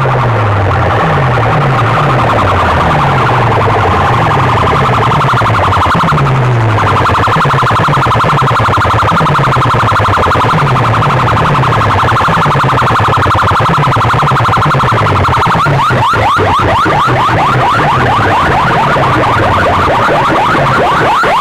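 Competition sound-system speaker stacks blasting an electronic siren effect at full volume over rapid, repeated falling bass sweeps. About three-quarters of the way through, a fast warble of rising pitch glides takes over.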